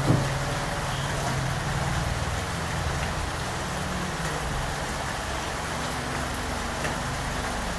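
Steady rain falling, an even hiss, with a low steady hum underneath and a short knock right at the start.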